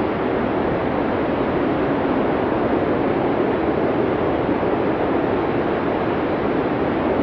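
Blizzard wind: a low, even rush of noise that holds steady without gusts or breaks.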